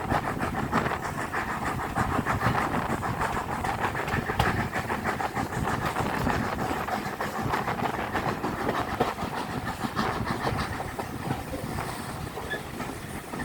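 Steam-hauled passenger train running along the line behind a 4F locomotive: a steady rumble with the fast rattle and clatter of the wheels and carriage, easing slightly near the end.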